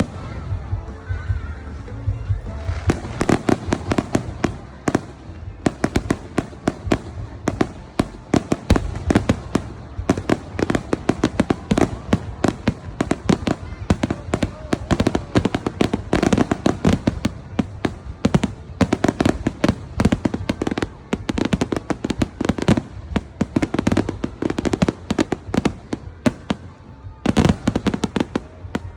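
Fireworks display: a rapid, continuous string of bangs and crackles starting about three seconds in, with music playing underneath. A brief lull near the end comes before a final short burst.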